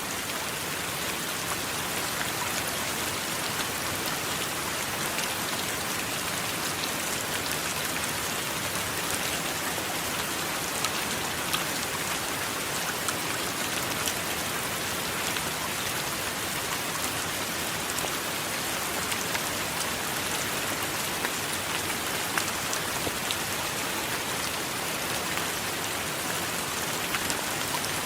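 Steady heavy rain, with many small sharp drop hits standing out from the even hiss.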